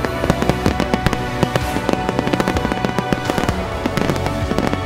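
A dense barrage of aerial firework shells bursting, with many sharp bangs and cracks in quick succession. Music plays underneath throughout.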